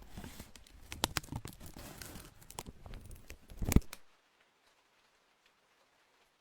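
Close-up crinkling and tearing of packaging, with many small clicks, ending in one sharp knock just before four seconds in.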